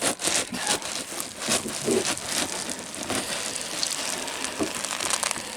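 Dry dog food poured into a bowl, the kibble rattling in a dense, rain-like patter of small clicks.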